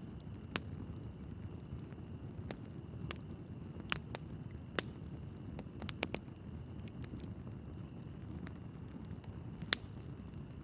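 Wood fire burning in a fireplace: a steady low rumble of flames with scattered sharp crackles and pops from the logs, one louder pop near the end.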